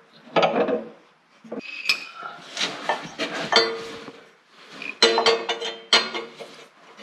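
Small steel fabrication pieces clinking and clanking as they are handled and set down on a metal surface, a series of sharp knocks, some ringing briefly.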